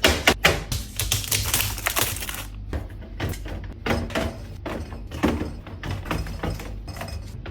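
Drink cans and bottles being set down and arranged on refrigerator shelves: a quick, uneven run of clinks, taps and knocks, with a denser stretch of clatter in the first two seconds.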